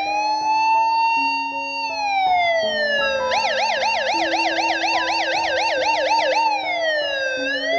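Police car siren, starting with a slow rising and falling wail, switching about three seconds in to a fast warbling yelp of about four cycles a second, then falling back into a slow wail near the end. Background music runs underneath.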